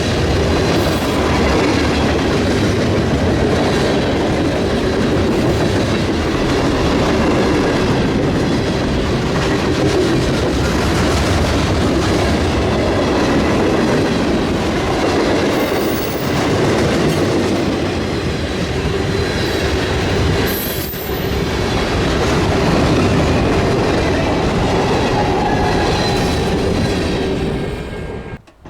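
Freight train cars rolling steadily past at close range, a loud rumble of wheels on rail with a clickety-clack over the joints. The sound cuts off suddenly near the end.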